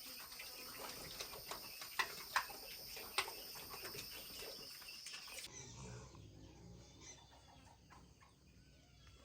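Insects droning steadily outdoors, with a few sharp knocks about two to three seconds in. After an abrupt change about halfway through, short repeated chirps of birds take over.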